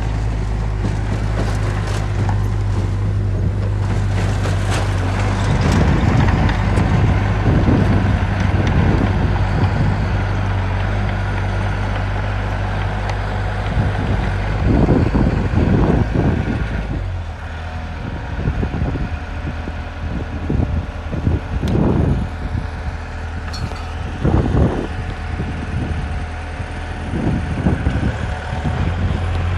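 Diesel engine of heavy construction machinery running steadily, with louder surges several times as it works under changing load.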